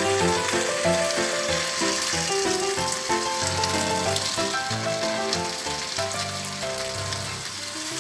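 Chicken curry sizzling and crackling in a frying pan as it is stirred with a wooden spatula, under background music that fades out near the end.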